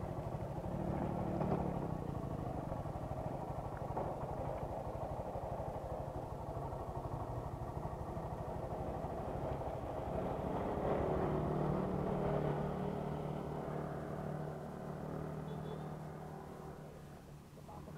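Motorcycle engine idling steadily. It grows a little louder a little past the middle and fades somewhat near the end.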